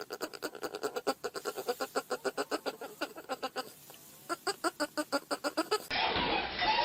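An animal making rapid, short pitched calls, about six or seven a second, in two runs with a brief pause between them. Near the end they cut off and give way to a louder, noisy sound.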